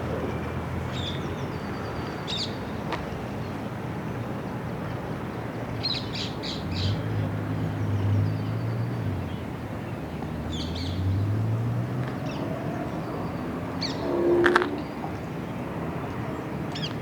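Birds chirping in short bursts at intervals over a steady background of city park ambience, with a low rumble of distant traffic that swells twice. About three-quarters of the way through comes one louder, brief call, the loudest sound.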